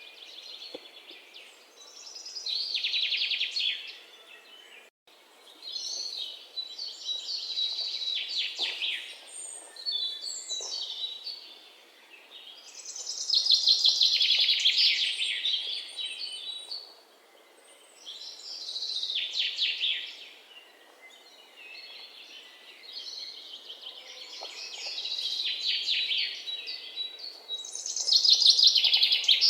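Birds calling in repeated bursts of rapid, high chattering trills, one every few seconds, over faint background noise.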